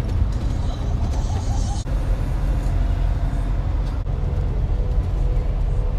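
Steady low rumble of a truck driving on the road. It breaks off abruptly and resumes about two seconds in and again about four seconds in, where short clips are spliced together.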